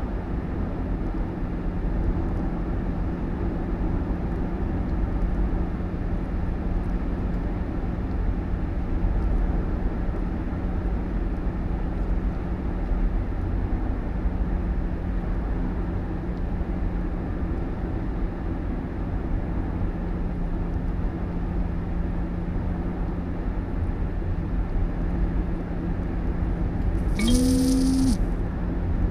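Steady vehicle engine and road rumble with a constant low hum, and a brief pitched sound with a hiss about a second before the end.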